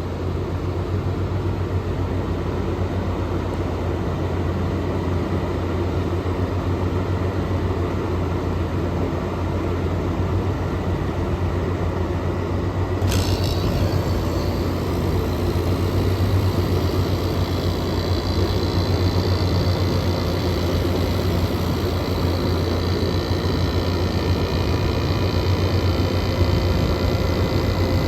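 Air conditioner running: a steady low hum under the even rush of its fan. About 13 seconds in there is a sharp click, and several steady high whining tones join from then on.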